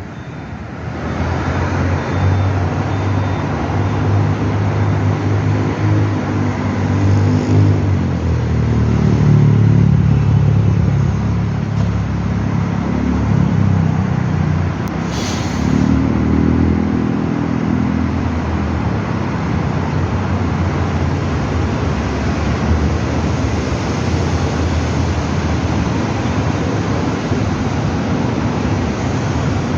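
A motor vehicle's engine running, a low hum that swells and fades between about 8 and 18 seconds, over a steady background hiss like traffic noise. There is one short sharp sound near the middle.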